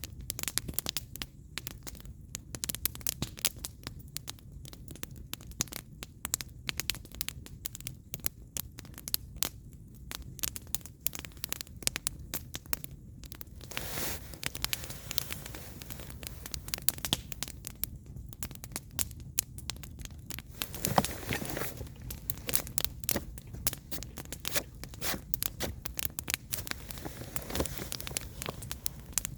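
Firewood burning in an open fire, crackling with a constant irregular run of sharp pops and snaps over a low steady rumble, with a short louder hiss about halfway through and again about two-thirds in.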